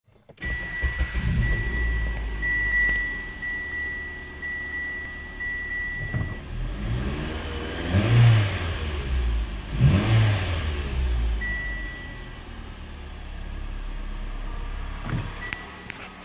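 2013 Mitsubishi Outlander Sport's 2.0-litre four-cylinder engine starting and idling, heard from inside the cabin, then revved twice, about 8 and 10 seconds in, before settling back to a quieter idle. A dashboard warning chime beeps repeatedly through the first six seconds and briefly again later.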